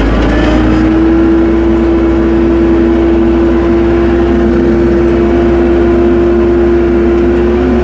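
Tractor engine revving up at the start and then running steadily at a constant speed, with a strong steady hum over a low rumble.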